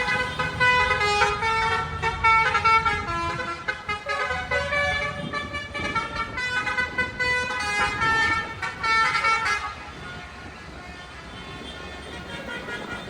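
Tractor horns tooting at several different pitches in quick succession over the low rumble of engines; the horns stop about ten seconds in, leaving the engine rumble.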